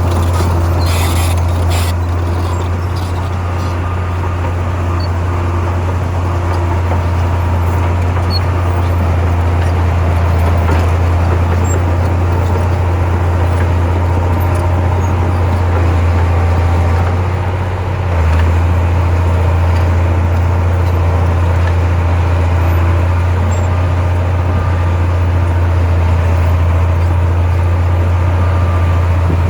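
Heavy diesel engine of earthmoving machinery running with a steady low drone, dipping briefly about two-thirds of the way through and then picking up again.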